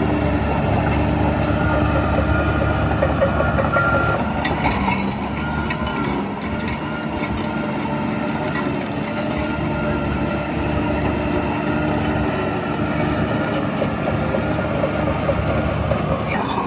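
Diesel engine of heavy earthmoving machinery running steadily, with a few light clicks about four to five seconds in.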